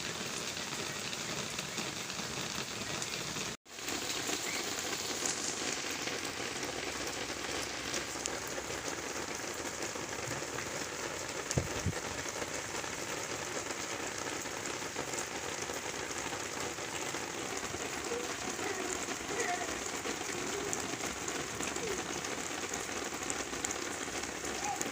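Steady rain falling, an even hiss. The sound cuts out for a moment about three and a half seconds in, and there is a single knock about halfway through.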